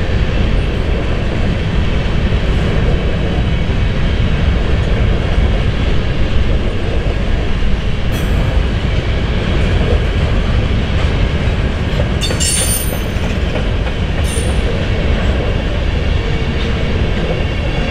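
Empty covered hopper cars of a BNSF grain train rolling past, their wheels on the rails making a steady, heavy rumble and clatter. Short high squeals cut in about eight seconds in, again around twelve to thirteen seconds, and once more a little after fourteen seconds.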